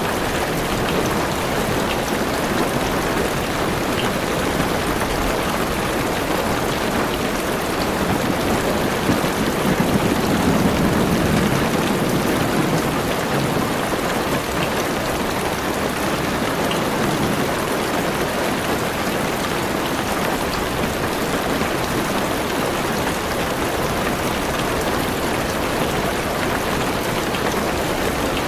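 Heavy rain drumming steadily on a car's roof and windows, heard from inside the car as a dense, even hiss of drops. A low rumble of thunder swells and fades about ten seconds in.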